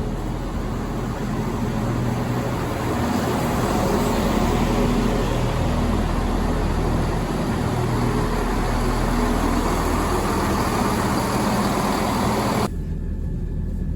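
A train running, a low engine hum under a steady rushing noise that swells slightly; near the end the rushing cuts off suddenly, leaving only the low hum.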